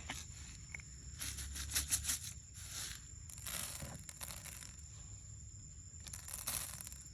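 Soft rustling and scraping noises in short bursts, about a second in, midway and near the end, over a low steady background rumble.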